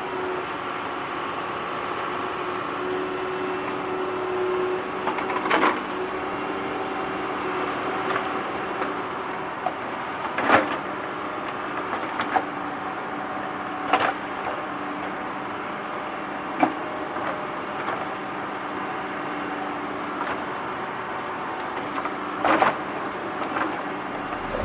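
A small motor whirring steadily, with a sharp knock or click every few seconds, about six in all.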